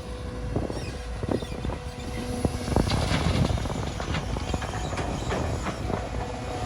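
Caterpillar 320GC excavator working: its diesel engine runs steadily under a whine, with repeated knocks and clatter that grow busier about halfway through.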